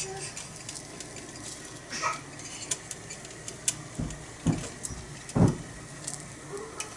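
Metal spatulas clicking and scraping on a thick iron griddle as a small okonomiyaki is flipped, with dull thumps about four to five and a half seconds in.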